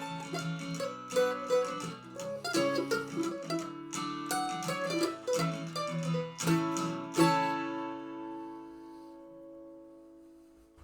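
Mandolin and guitar playing the closing instrumental bars. The music ends on a final chord about seven seconds in, which rings out and slowly fades.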